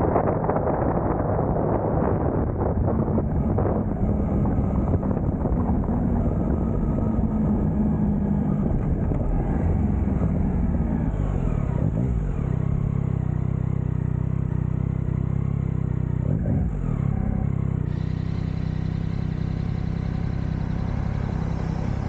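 Yamaha MT-09 inline-three motorcycle engine running under wind rush while riding. The engine note drops as the bike slows about halfway through, then settles to a steady idle while it waits at a stop.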